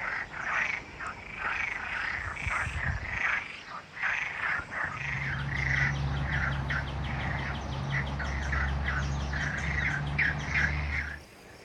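A chorus of frogs calling, many short repeated croaking calls overlapping. From about halfway through, a steady low hum sounds beneath them.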